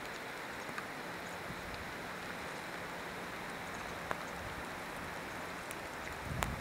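Steady hiss of light rain, with a few scattered ticks of drops, and a brief low rumble near the end.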